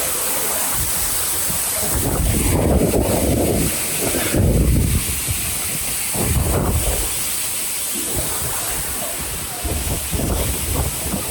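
Waterfall rushing steadily, with wind gusting against the microphone several times in low rumbling bursts.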